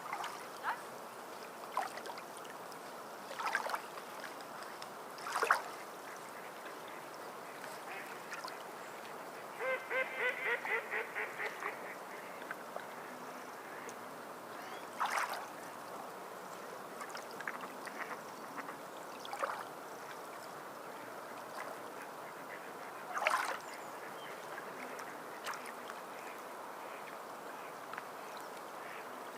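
Water lapping and splashing over a steady wash, with short splashes scattered through. About ten seconds in, a bird gives a quick run of about a dozen calls lasting a couple of seconds.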